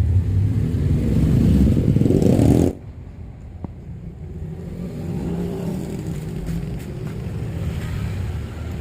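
Honda Scoopy scooter's single-cylinder engine revved, building for under three seconds, then released suddenly and dropping back to a quieter, steady running sound. The scooter's CVT rollers and roller housing are worn, the cause of its rough sound and weak pull when climbing.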